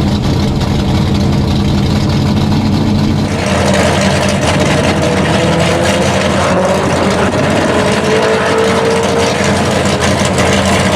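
Drag-racing Mercury Cougar's engine idling in a low, steady rumble, with the sound growing louder and harsher about three and a half seconds in.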